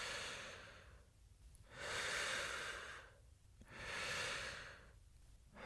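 Slow, heavy human breathing, one breath about every two seconds.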